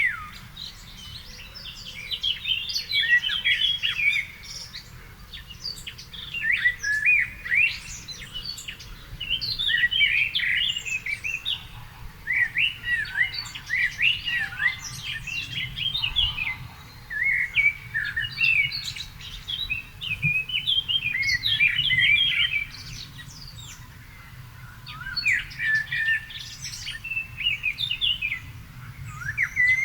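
Birdsong: varied phrases of quick, sweeping twittering notes, each a few seconds long, with short pauses between them, over a faint low rumble.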